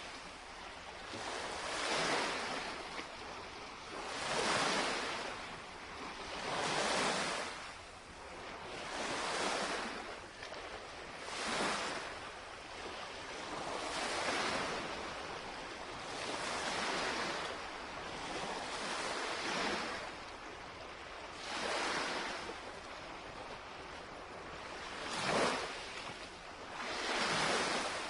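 Small lake waves lapping against the shoreline, each wash swelling and fading every two seconds or so in a slow, even rhythm.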